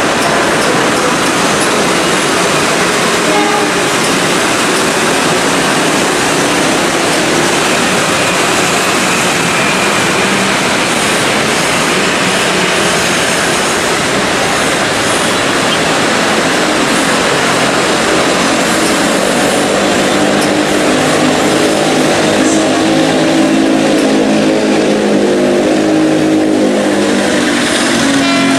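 Diesel locomotive hauling a container freight train past, with the steady rumble of wagon wheels on the rails. The locomotive's engine hum grows clearer in the second half.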